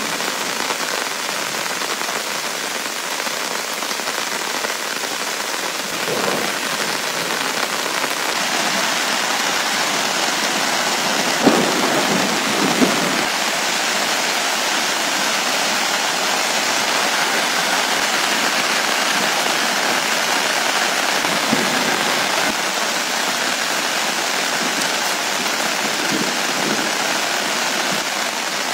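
Heavy rain falling steadily, a dense even hiss, with two brief knocks about twelve seconds in.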